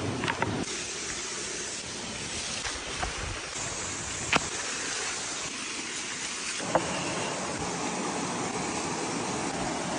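Beef on wooden sticks sizzling over hot charcoal: a steady hiss with a few sharp crackles and pops from the coals, about four in all.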